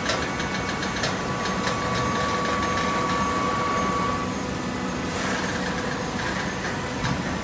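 Hydraulic cardboard baler's electric motor and pump running steadily. A steady high tone stops about four seconds in, and a few sharp clicks are heard.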